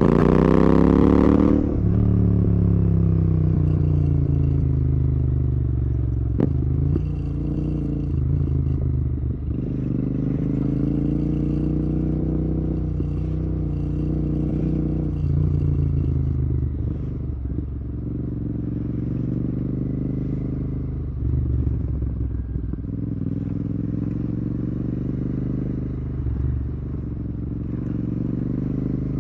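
Royal Enfield Continental GT 650's parallel-twin engine through a Red Rooster aftermarket exhaust, revved hard at the start and then easing off, its pitch rising and falling again and again with throttle and gear changes. A single sharp click about six seconds in.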